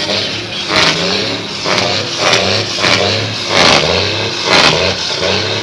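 Engine revved in quick repeated blips, about one a second, each surge rising and falling.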